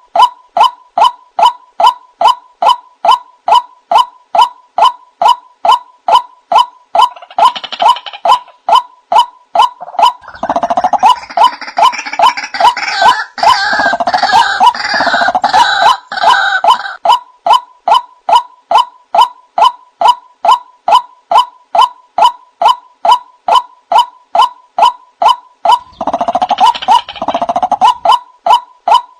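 White-breasted waterhens calling: a monotonous train of identical notes, a little over two a second, runs on without a break. Harsher, fuller calls join in about seven seconds in, loudest between about ten and seventeen seconds, and again briefly near the end.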